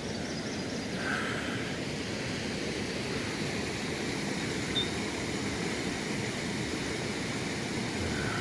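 Steady rushing of river water below the falls, with one short high chirp about five seconds in.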